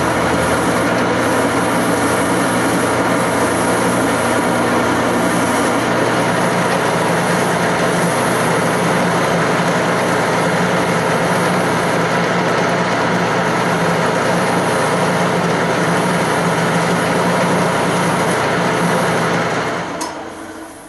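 Wood lathe running as a chair leg is turned, a steady machine hum under the noise of the tool cutting the spinning wood. The sound dies away near the end as the lathe stops.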